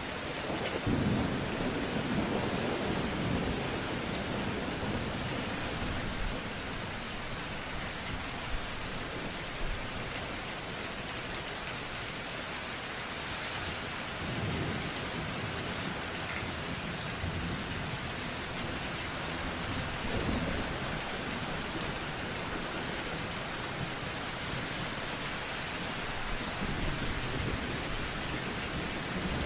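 Steady rain hissing down, with low rolls of thunder rumbling several times.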